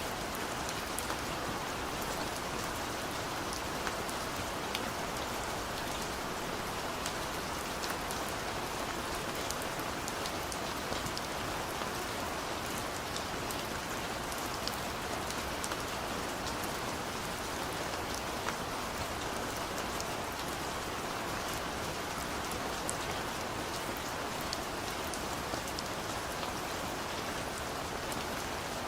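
Heavy rain pouring down in a steady, even hiss, with many small drop ticks scattered through it.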